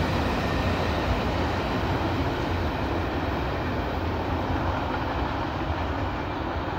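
Freight train of covered hopper cars rolling away along the track: a steady rumble of wheels on rail that slowly fades as the train recedes.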